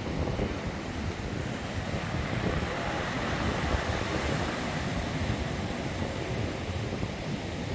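Steady rushing noise with a strong low rumble, even throughout.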